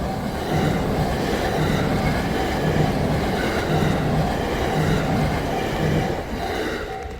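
Train passing over a level crossing on the JR Sanyō Main Line: a loud, steady rush of wheels on rail, with a low hum swelling about once a second, fading away near the end. Under it, the crossing's warning bell keeps ringing a little over twice a second, coming through plainly again as the train fades.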